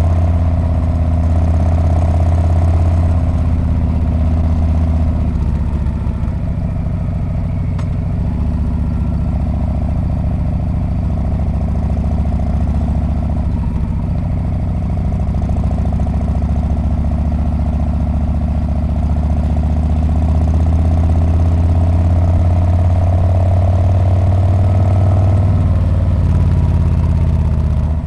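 Harley-Davidson Street Bob's V-twin engine and exhaust under way on a ride, a steady low note. It eases off about five seconds in, builds up again later on, and backs off near the end.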